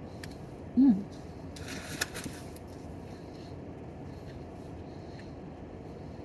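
A short hummed 'mm' that drops in pitch, then a brief crunch as the fried crust of a pie is bitten into, over a steady low background hiss.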